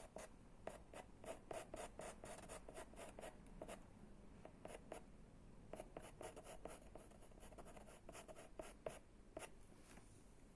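Chalk pastel drawing short, quick strokes on pastel paper to put in a dog's hairs, faint, about three strokes a second with brief pauses between runs.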